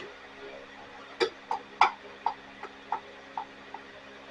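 Light irregular clicks and knocks, about two or three a second from about a second in, from the hands-on work on a STIHL BG 86 blower's small two-stroke engine as it is turned over and handled while hunting for what is hitting inside it.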